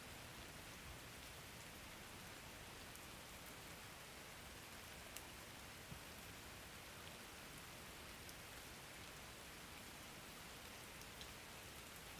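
Faint, steady rain hiss, with a few soft drop ticks now and then.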